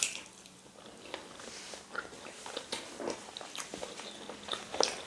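Close-miked chewing of mouthfuls of rice and beans, with small mouth clicks scattered throughout.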